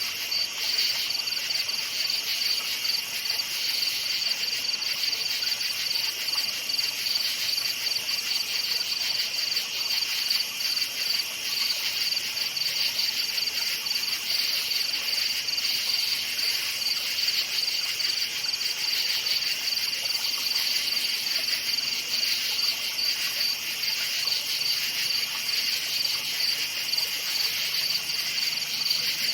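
Crickets chirping in a continuous, steady chorus of high, rapidly pulsing trills.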